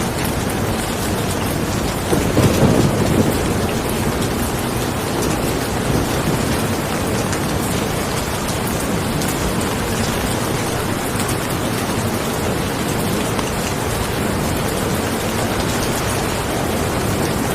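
Steady rain falling in a dense, even hiss, with fine drop ticks throughout. A brief low rumble swells about two seconds in and fades about a second later.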